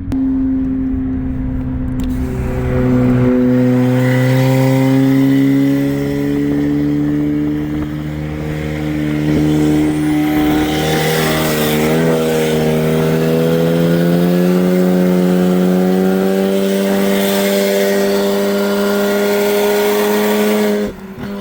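Turbocharged four-cylinder car engine pulling hard under full throttle, heard from inside the cabin. Its pitch climbs slowly and steadily through a long gear, wavers briefly midway, then drops away just before the end as the throttle is lifted. Road and wind noise run underneath.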